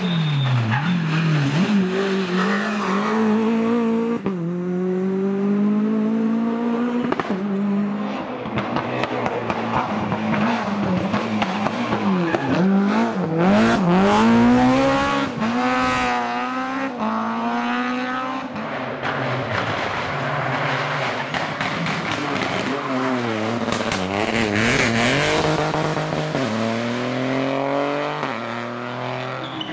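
Rally car engines revving hard, the pitch climbing through each gear and dropping on the shifts and braking, again and again, with several sharp cracks in the middle.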